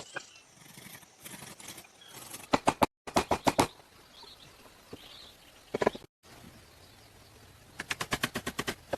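Quick runs of sharp knocks or strikes, in short clips cut together: a few strikes about two and a half and three seconds in, and a rapid run of about ten a second near the end.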